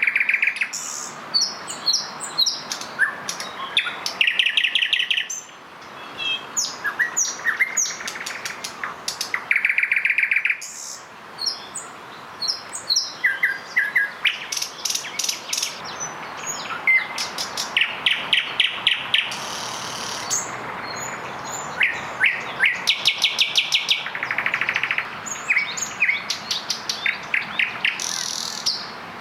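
Three nightingales singing at the same time, their songs overlapping in phrases of rapidly repeated notes, clicking runs and trills, with hardly a pause.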